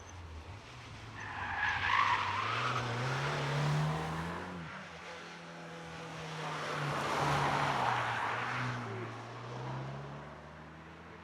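A car driven hard up a hillclimb course: its engine note rises under acceleration, drops at a gear change about four and a half seconds in, then pulls again. Tyres squeal around the first loud peak about two seconds in.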